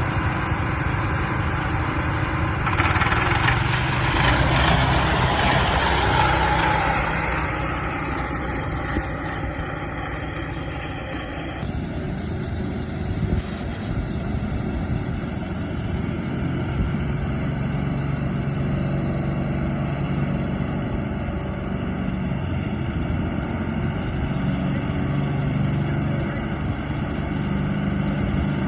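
Sears 10XL garden tractor engine running steadily, growing louder for a few seconds about three seconds in, then settling back.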